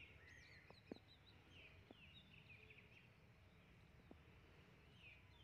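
Near silence with faint, scattered bird chirps and a soft click about a second in.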